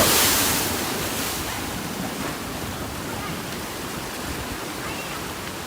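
Rushing water, like a wave breaking, loudest at the start and easing over the first second. It settles into a steady roar of water and wind.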